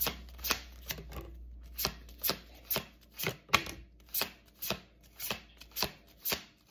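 A deck of tarot cards being shuffled by hand, the cards slapping together in a regular rhythm about twice a second.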